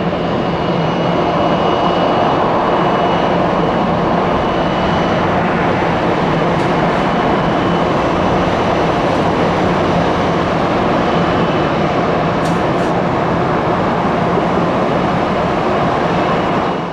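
Jet airliner engines running loud and steady, with a thin high whine over the top that fades out about five seconds in.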